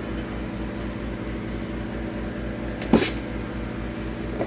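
Steady mechanical hum, with one sharp knock about three seconds in and a lighter one near the end.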